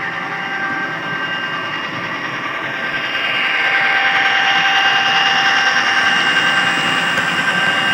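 HO scale model diesel locomotive running on the layout, its sound decoder playing a steady engine drone and whine through a small speaker. It grows louder about three seconds in as the train comes closer.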